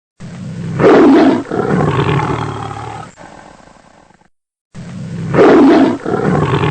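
Tiger roaring, the same roar recording played twice in a row. Each roar swells to its loudest about a second in, then trails off over a few seconds.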